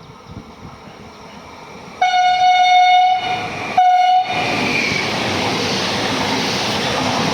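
Train horn sounding two blasts about two seconds in, a longer one then a short one, followed by the loud, steady rush of a train passing.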